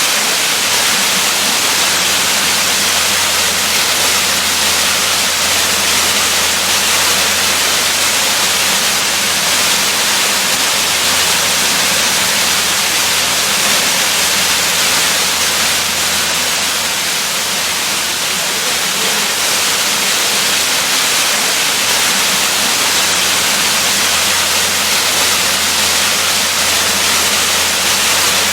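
Waterfall rushing: a steady, even roar of falling water that stays unchanged throughout.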